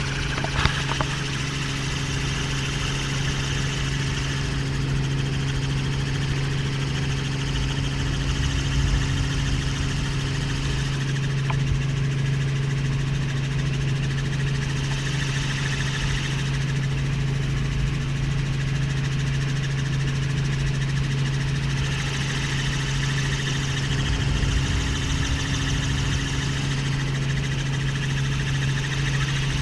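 Helicopter running with a steady, unbroken engine drone and low hum, with a higher hiss that swells and fades every few seconds.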